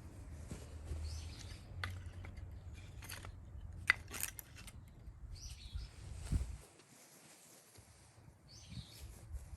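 Birds chirping now and then in outdoor ambience, with a few sharp clicks and a low rumble that falls away about two-thirds of the way through.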